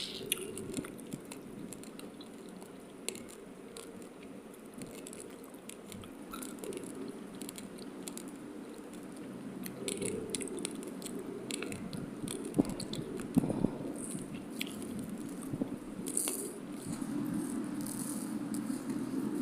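Raw, uncooked rice grains being crunched and chewed between the teeth: many small sharp cracks and clicks, with a few louder crunches in the second half.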